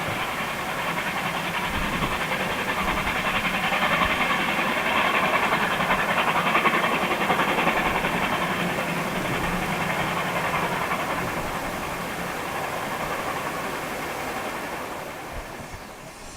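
Steam train running on the line, hauled by double-heading R class steam locomotives, with a dense mix of exhaust, hiss and rail noise that swells to a peak about halfway and then fades.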